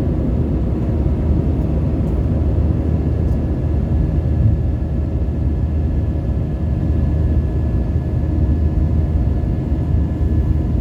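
Cabin noise of a Qatar Airways jet airliner in flight: a steady, even low rumble with a few faint steady hums over it.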